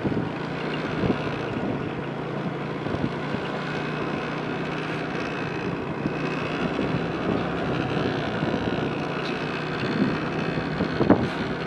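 Motor vehicle engine running steadily, with wind noise on the microphone.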